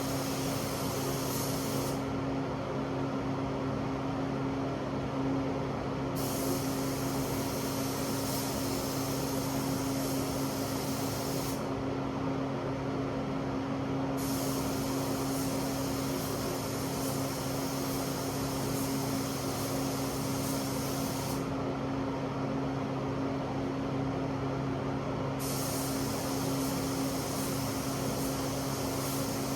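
Spray gun hissing in long passes of several seconds, on and off four times, while the paint booth's exhaust fan runs with a steady hum; sealer is being sprayed onto truck body parts.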